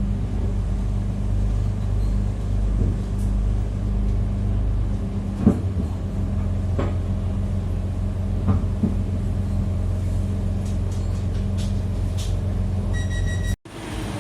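KA Bandara YIA airport train running, heard from inside the carriage: a steady rumble with a low hum, and a few short knocks around the middle. Near the end a short electronic tone sounds, and the sound cuts out abruptly for a moment.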